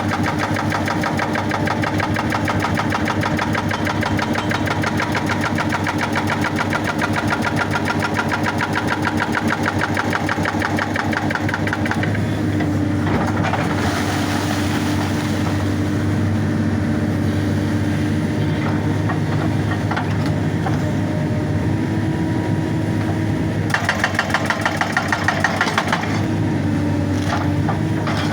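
Excavator's diesel engine running with a hydraulic rock breaker hammering rapidly on rock for about the first twelve seconds. The hammering then stops and the engine runs on alone, before a shorter burst of hammering a few seconds before the end.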